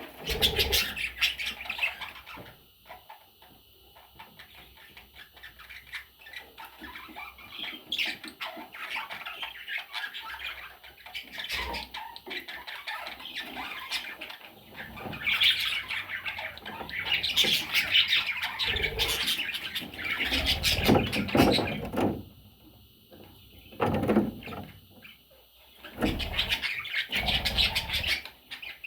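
Pet budgerigars squawking and chattering in irregular bursts, busiest in the middle and again near the end.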